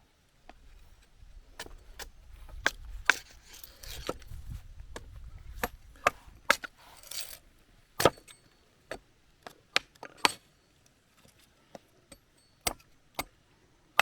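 Wood being split into kindling with an axe: a string of sharp, irregularly spaced chops and splitting cracks.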